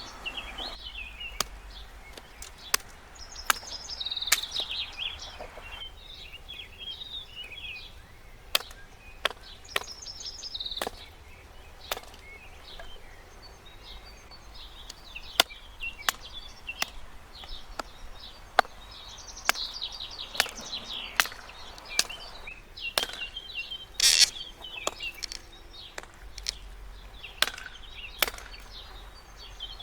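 Sharp, irregular knocks and snaps about once or twice a second, with the loudest near the end, while birds chirp.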